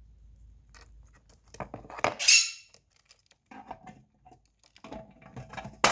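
Small clicks and scrapes from a Quaker parrot handling coins and the plastic boxes, with a louder rasping burst about two seconds in and short squeaky sounds later on.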